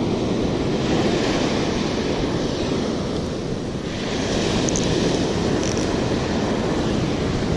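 Ocean surf washing steadily onto the beach, with wind buffeting the microphone; the rush eases slightly about three and a half seconds in, then swells again.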